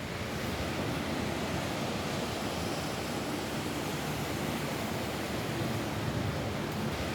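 Steady rain falling on a roof, an even hiss of noise.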